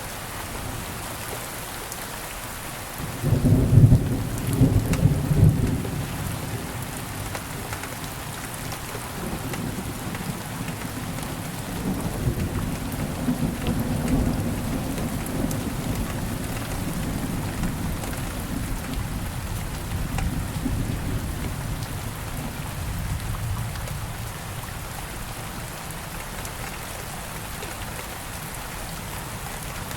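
Steady rain falling throughout. About three seconds in, a low rumble of thunder breaks in, loudest for a few seconds, then rolls on more softly for over ten seconds before fading back to just the rain.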